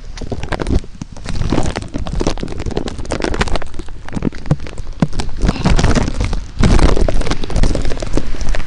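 Rain pattering densely and unevenly close to the microphone, over a heavy low rumble, louder from a little under seven seconds in.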